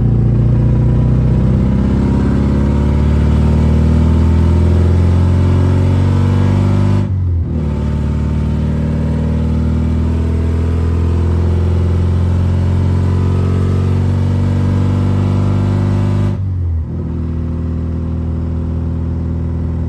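Straight-piped four-cylinder exhaust of a BMW E36 running through an AutoZone muffler, pulling under acceleration with its pitch climbing. There are two upshifts, about seven seconds in and again about sixteen seconds in, each a brief dip in the sound before the engine pulls on.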